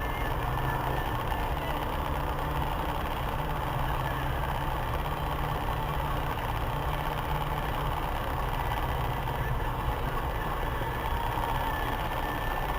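Steady engine and traffic noise in city traffic, heard from inside a car.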